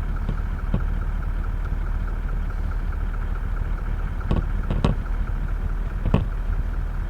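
Vehicle engine idling with a steady low rumble, with a few light knocks about four to five seconds in and again near six seconds.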